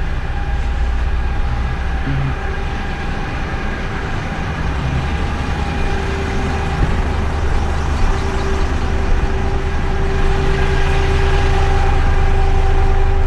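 A fork-lift garbage truck's diesel engine runs with a steady low rumble and a steady whine held over it, getting slightly louder near the end.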